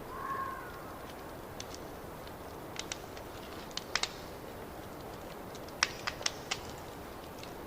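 Wood fire crackling in a fireplace: irregular sharp pops over a steady hiss, with a cluster of louder pops about six seconds in. A short high squeak sounds at the very start.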